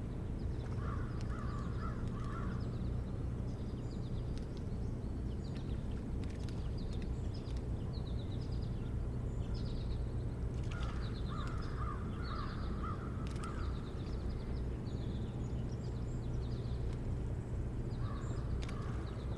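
Wild birds calling: three bouts of harsh call notes in quick series, near the start, about eleven seconds in and near the end, with high, thin chirps of smaller birds throughout. A steady low rumble runs underneath.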